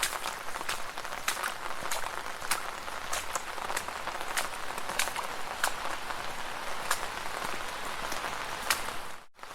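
Footsteps splashing through shallow puddles: a steady wet hiss with sharp, irregular splashes and ticks. The sound cuts out briefly near the end.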